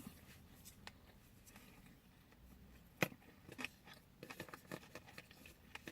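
Quiet chewing and mouth sounds of someone eating sushi, with a sharp click about three seconds in and a run of small clicks after it.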